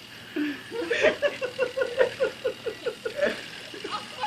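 A person laughing: a long run of quick 'ha-ha' pulses, about five a second, starting about a second in and tailing off after about three seconds.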